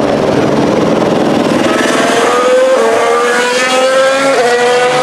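Formula 1 car's 1.6-litre turbocharged V6 hybrid engine accelerating past, its pitch climbing with quick upshifts about three seconds in and again just after four seconds, over the steady noise of other cars.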